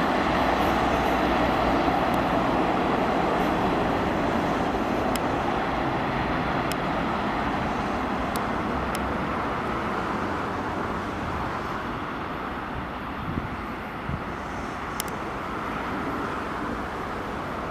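Container freight train rolling away along the track, the rumble of its wagons slowly fading, with a few faint clicks.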